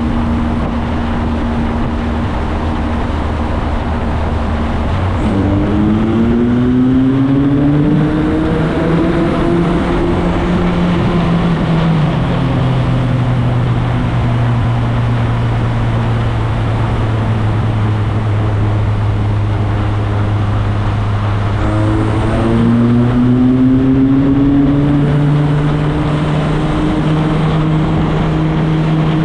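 Motorcycle engine while riding, with wind rushing over the microphone: the engine holds a steady note, rises in pitch as it accelerates about five seconds in, settles after a gear change around eight seconds, cruises, then rises again a little over twenty seconds in before levelling off.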